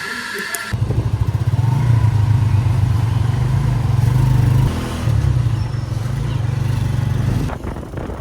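A small motorbike-type engine running steadily, a low rapid pulsing rumble that starts abruptly about a second in and dips briefly about halfway through.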